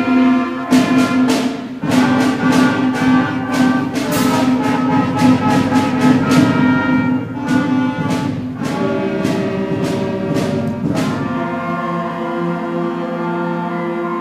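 School concert band playing a piece in 3/4 time: sustained wind chords over regular percussion strikes. The percussion stops about eleven seconds in, leaving only the held chords.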